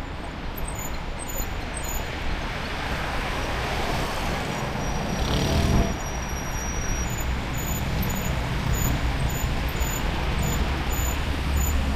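Road traffic and low wind rumble heard from a moving bicycle, with one vehicle passing loudest about five to six seconds in.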